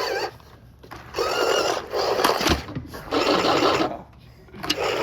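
Electric motors and gearboxes of RC cars whining in bursts of about a second as the throttle is pulled and let go, four times, with short gaps between. There is a single knock about halfway through.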